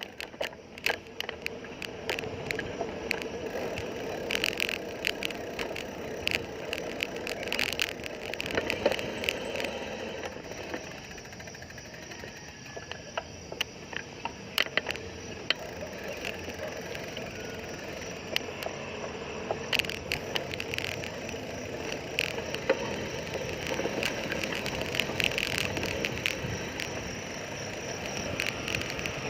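Sound of riding a bicycle on the road: irregular clicks and rattles from the bike over a steady rushing road noise.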